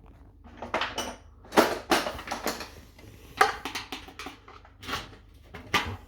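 Irregular metal knocks and clatter from a dishwasher's metal door panel being handled and worked loose, about seven in all, one near a second in ringing briefly.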